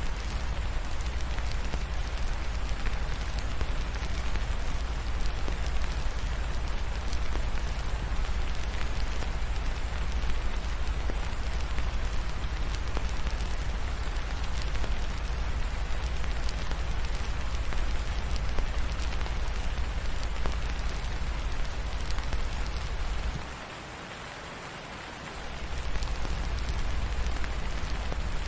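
Steady rain mixed with a crackling fireplace, scattered sharp ticks over an even hiss, on top of a deep low rumble. The rumble drops out for about two seconds near the end, then comes back.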